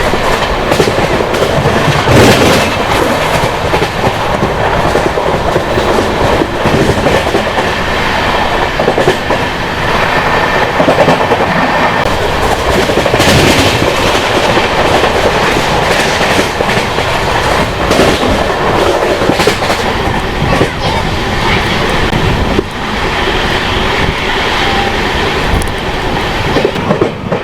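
An Indian Railways LHB passenger coach running at speed. Its wheels clatter over the rail joints in repeated clicks above a loud, steady rumble of wheels on track.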